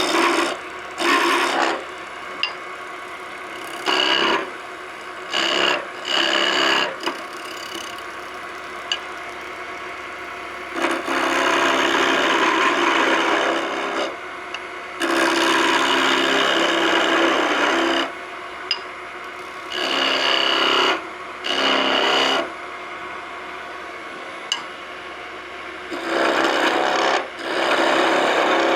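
Skew chisel cutting a hickory spindle blank spinning on a wood lathe: a string of cuts, short ones at first and then several lasting two to three seconds each, with the lathe running steadily between them.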